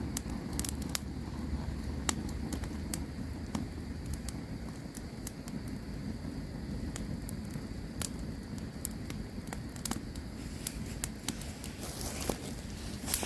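Campfire crackling: irregular sharp pops and snaps over a low steady rumble of burning wood, with a faint steady high hum that fades out near the end.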